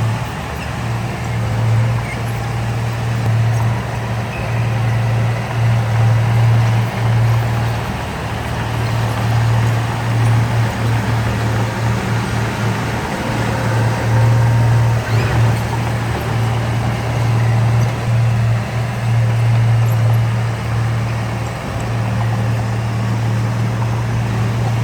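Heavy construction machine's diesel engine running with a steady low drone that falls away briefly several times and comes back.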